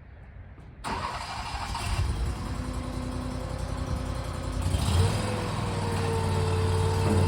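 Toro Dingo compact utility loader's engine starting about a second in and then running, growing louder with a steadier, higher note about five seconds in as it speeds up.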